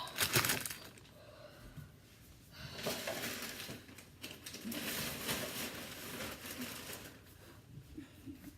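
Kitchen handling sounds: a few knocks at the start, then several seconds of rustling and crinkling.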